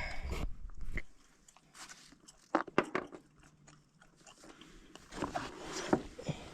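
Irregular clicks, taps and scrapes of metal parts being handled at a gas furnace's burner as the flame sensor is worked out of its mount. The busiest handling comes in the first second, with scattered sharp clicks later on.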